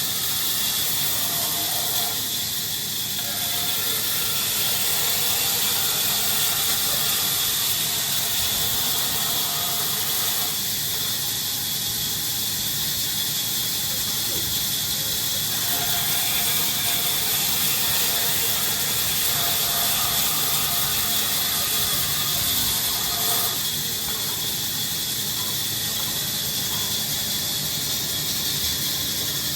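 Woodworking machinery running steadily with a loud, high hiss, and a faint whine that comes and goes a few times.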